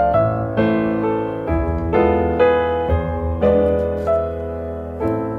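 Background piano music: gentle chords and melody notes struck about twice a second, the last chord left to ring and fade near the end.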